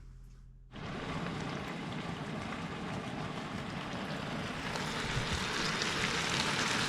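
Bacon sizzling and spitting in a frying pan: a dense hiss with fine crackles that starts abruptly about a second in and grows slowly louder.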